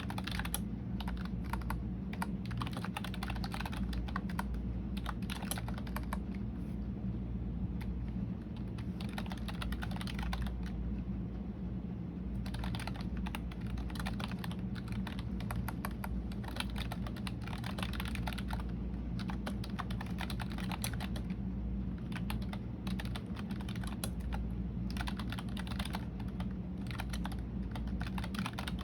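Typing on a computer keyboard: runs of quick key clicks with short pauses, and a thinner stretch of a few seconds about a third of the way in. A steady low hum runs underneath.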